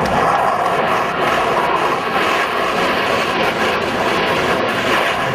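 Jet aircraft engine noise, a loud, steady rush.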